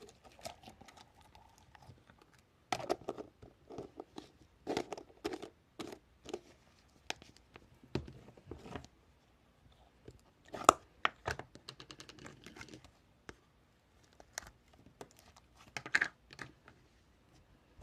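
Close-miked crinkling, crackling and small clicks in irregular short bursts with brief pauses, the loudest near the middle and again near the end.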